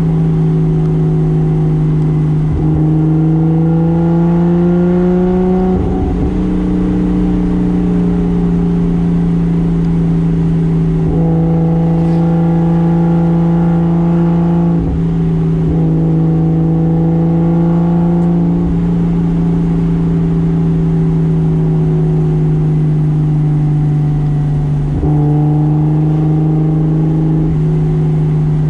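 Toyota Soarer's single-turbo 2JZ straight-six running under way at a fairly steady engine speed. The pitch rises slightly over the first few seconds, then holds, with small shifts in tone several times.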